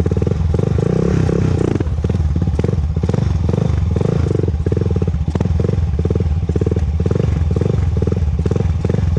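2001 Honda TRX400EX ATV's single-cylinder four-stroke engine running at low speed through its stock exhaust, a steady rapid train of exhaust pulses as it rolls along at about 2 mph. No ticking is heard over it, which the owner takes as the ticking noise solved.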